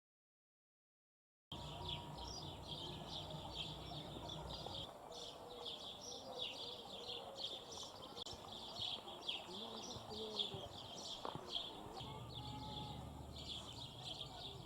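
Small birds chirping: a dense run of short, high calls, starting about a second and a half in after silence, over a low outdoor rumble.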